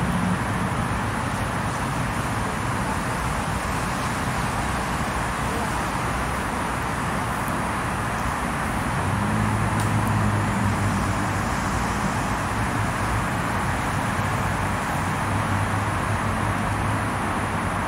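Steady hiss of road traffic, with the low hum of passing vehicle engines rising and falling twice.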